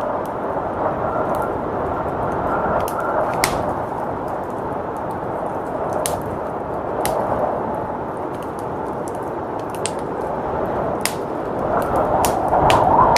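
Wood fire crackling, with sharp pops at irregular moments, over a steady rush of blizzard wind that swells louder near the end.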